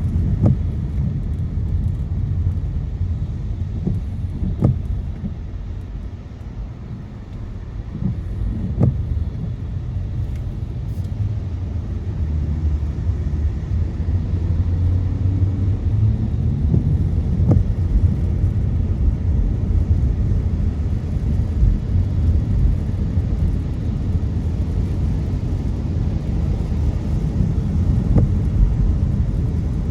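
A car driving on a city road, with the low, steady rumble of engine and tyres. It eases off about six to eight seconds in, then builds back up.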